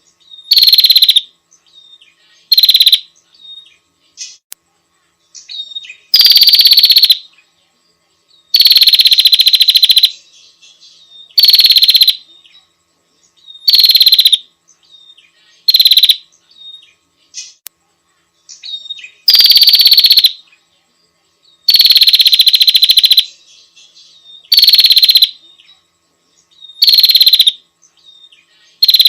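Female prinia (prenjak) giving loud, rapid, buzzy chattering trills, each up to about a second and a half long, repeated every two to three seconds, with short faint chips in between.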